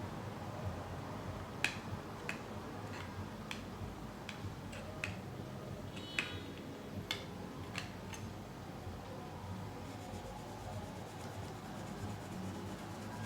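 About a dozen light, irregular clicks and taps over several seconds, one with a brief metallic ring, over a steady low hum.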